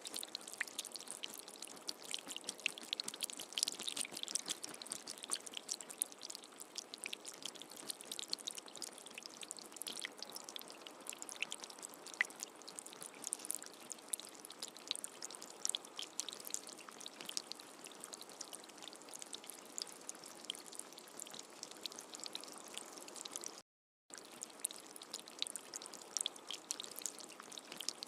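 Steady rain: an even hiss thick with the ticks of individual drops, with no thunder. It cuts out to silence for a fraction of a second about 24 seconds in.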